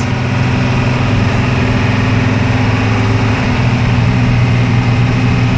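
International DTA360 turbo-diesel engine of a school bus running steadily under load as the bus accelerates on the road, heard from inside the cabin with road noise.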